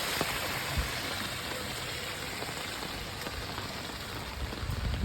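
Heavy rain falling steadily in a dense hiss, with a few short low thuds, one about a second in and several near the end.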